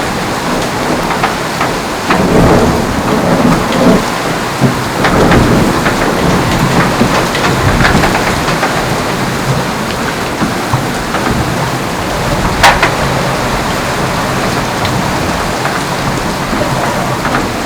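Rushing water and wind noise aboard a racing yacht sailing fast, with spray and water hitting the boat. Several sharp knocks and slaps stand out, the loudest about two-thirds of the way through.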